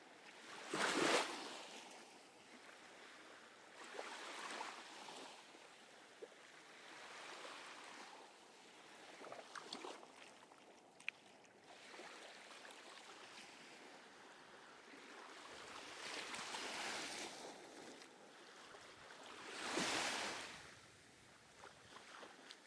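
Small ocean waves breaking and washing up the beach, coming in surges every few seconds, the strongest about a second in and again near the end.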